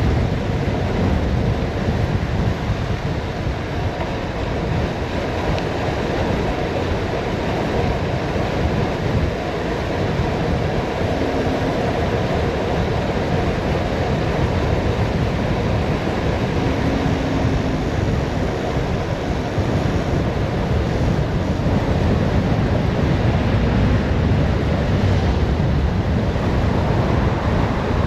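Steady wind rushing over the microphone of a bicycle coasting downhill at speed.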